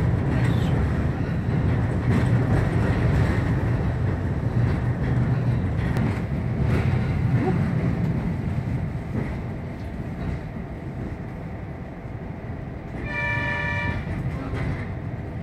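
Diesel railcar running along the track, heard from the cab: a steady low engine and running rumble that eases off in the second half, with one short horn blast of about a second near the end.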